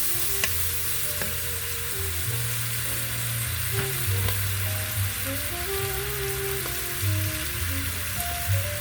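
Steady sizzling of food frying in a pan on the stove, with music playing underneath and a small click about half a second in.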